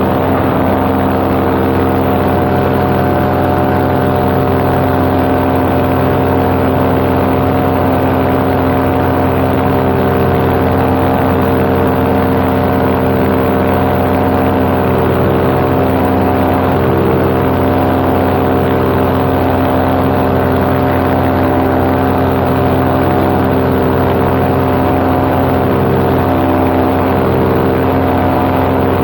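Paramotor engine and propeller running steadily in cruising flight, one unchanging engine note heard from the pilot's seat.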